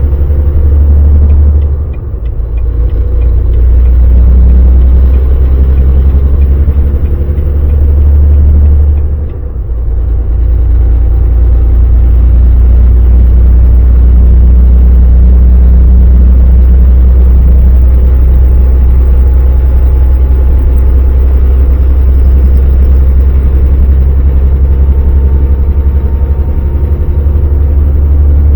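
Volvo VNL semi truck engine running under way, a loud steady low drone with road noise. The sound briefly drops twice, about two seconds and nine and a half seconds in.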